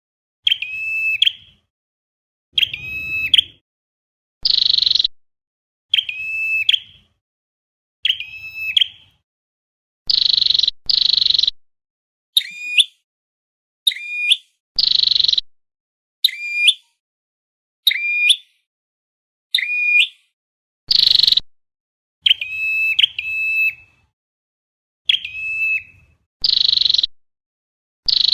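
Flowerpecker lure recording: short, sharp, high-pitched call notes repeated about every second or so, alternating a clipped note that drops in pitch with a buzzier note, separated by dead silence. The looped call is meant to draw the bird to a trap.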